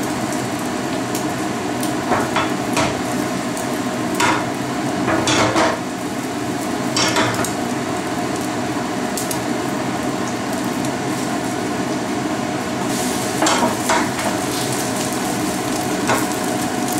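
Egg omelette with chives and char siu frying in oil in a frying pan over turned-down gas heat, a steady sizzle. A spatula scrapes and taps against the pan now and then, a dozen or so short strokes.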